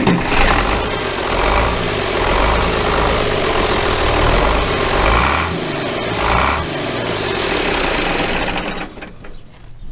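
International Harvester 1086's six-cylinder diesel engine running after years of sitting, sounding healthy, then shut off about nine seconds in.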